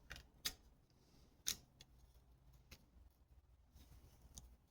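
Near silence with a few light clicks, the two sharpest about half a second and a second and a half in.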